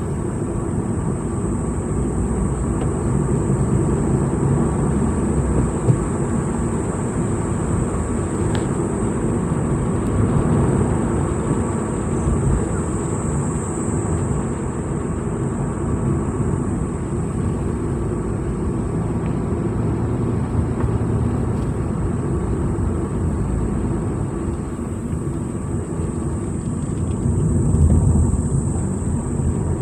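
A vehicle driving steadily along a road, its engine and tyre noise heavy and low, with a steady high-pitched tone above it and a single sharp click about six seconds in.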